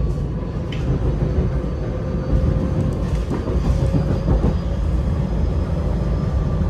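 SEPTA Regional Rail electric multiple-unit train running at speed, heard from inside the passenger car: a steady low rumble with a faint steady hum over it.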